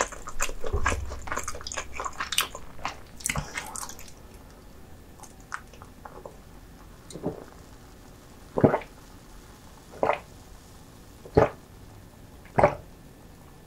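Close-miked eating sounds: sticky, wet chewing and biting with dense crackly mouth clicks for the first few seconds, then separate wet mouth smacks about once every second and a half.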